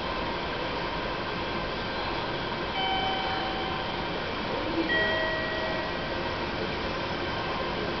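Steady station-platform background noise as a 485-series train approaches from a distance, with two short electronic tones, the second lower than the first, about three and five seconds in.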